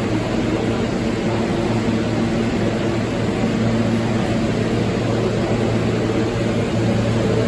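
R160 subway train running, a steady loud noise with a constant low hum.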